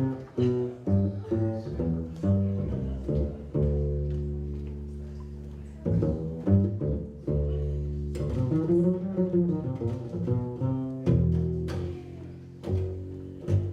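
Solo upright double bass played pizzicato, a walking line of plucked low notes with several left to ring and one note bent up and back down about two thirds of the way through.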